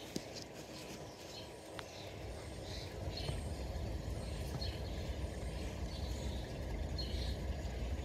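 Small birds chirping in short, scattered notes over a steady low rumble that grows louder about three seconds in.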